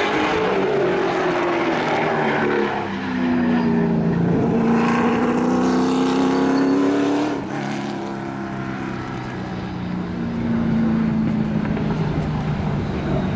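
Race car engine running hard, its pitch climbing steadily, dropping sharply about seven seconds in, then climbing again.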